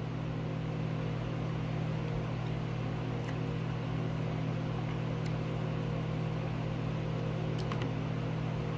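A steady low hum, like a machine or mains hum, with a few faint clicks.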